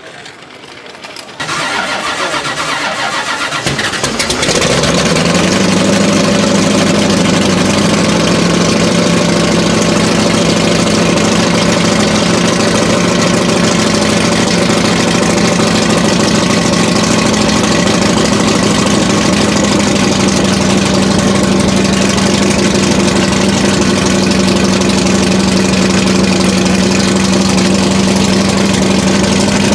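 A historic car's engine is cranked about a second and a half in, catches about four and a half seconds in, and then idles loudly and steadily.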